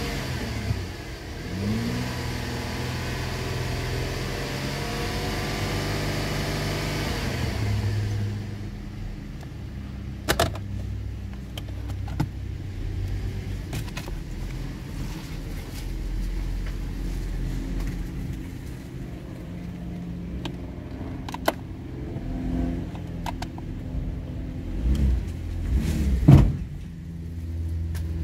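A 2011 Holden Commodore's 3.6-litre V6 petrol engine, heard from inside the cabin, revved in short blips and held at raised revs for several seconds, then settling to a steady idle. Scattered sharp clicks sound over it, and there is another brief rev near the end.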